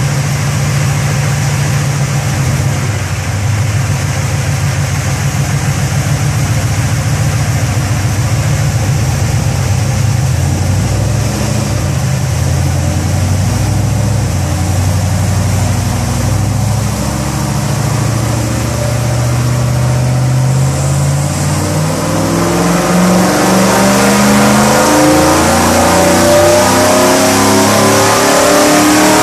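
Truck engine running on a chassis dynamometer: it runs at a steady low speed for about twenty seconds, then the revs climb steadily and the sound gets louder as a dyno pull begins.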